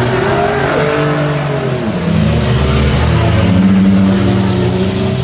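Several race trucks' and SUVs' engines revving hard, their pitch rising and falling as they accelerate around the track, with one engine growing louder in the second half.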